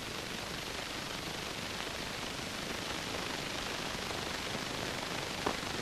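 Steady soundtrack hiss with no other sound but a faint tick near the end.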